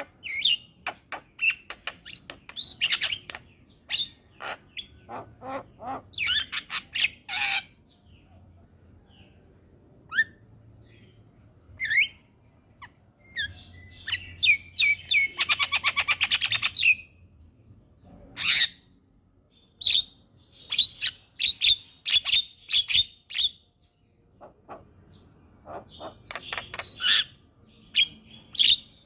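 Javan mynas (jalak kebo) calling in irregular bursts of sharp chirps and whistled notes, with a fast rattling trill about halfway through.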